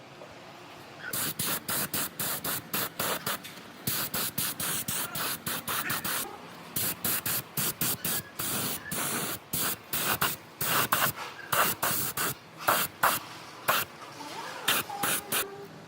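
Rapid series of short hissing spray bursts, a few a second, with brief pauses between runs.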